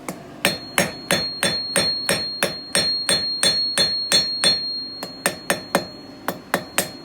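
Blacksmith's hammer striking hot steel on an anvil, flattening the end of a forged fire-steel spike, about three blows a second. A high ring carries on between blows. The hammering breaks off briefly a little past halfway and then resumes.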